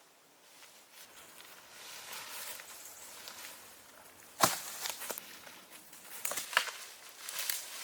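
Rustling and crackling, as of dry leaves or twigs being handled or stepped on, growing from about a second and a half in, with one sharp snap or knock a little past halfway and a few more sharp clicks near the end.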